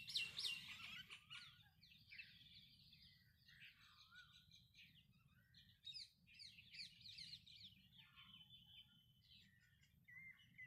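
Faint birdsong: several small birds chirping and trilling, with quick repeated down-sweeping chirps at the start and a few short held whistled notes near the end.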